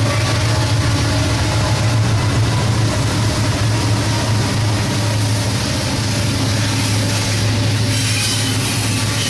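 A train passing close by: a steady low drone under a continuous rushing rumble of wheels on rail. Thin, high wheel squeal starts creeping in near the end.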